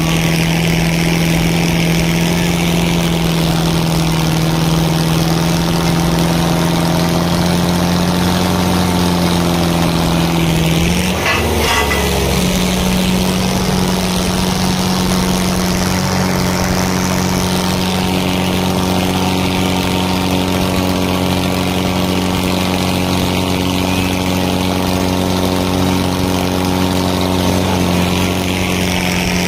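Tractor diesel engine running steadily at high revs, its pitch stepping up slightly about eleven seconds in and holding there.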